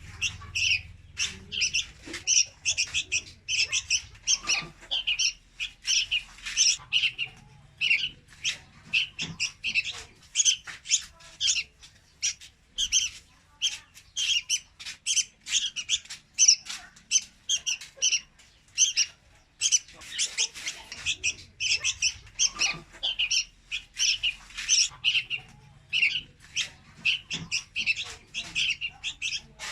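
Young red-whiskered bulbul calling: rapid runs of short, high chirps, several a second, broken by brief pauses.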